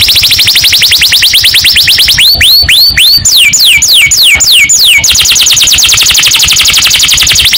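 Domestic canary singing in tours: a fast trill of rapidly repeated high notes, then from about two seconds in slower notes sweeping down in pitch, about three a second, then a fast trill again from about five seconds in.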